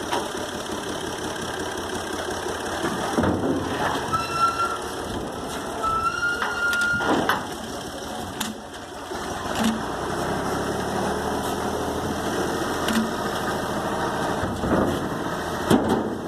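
Tractor engine running steadily, with several sharp knocks and clunks at scattered moments and a brief high squeal near the middle.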